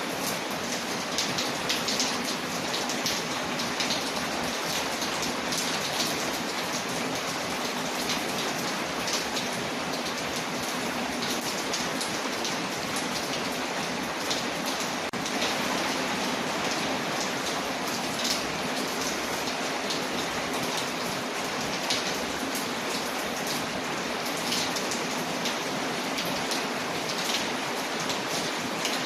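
Steady rain falling on a window, an even hiss dotted with frequent small, sharp drop ticks.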